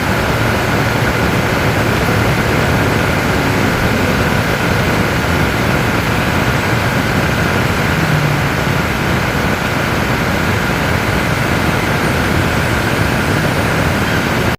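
Boeing 787-9 airliner running on pushback: a loud, even rushing noise with a faint steady high whine over it.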